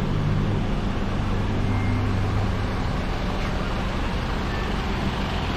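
Motor vehicle engine running steadily, a low hum over even road noise, easing slightly partway through.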